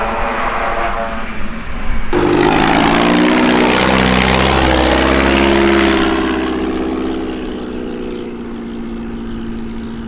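A propeller airplane's engine drones. About two seconds in, the sound changes abruptly to a propeller airplane flying close past, loudest in the middle, its pitch falling as it goes by, then fading.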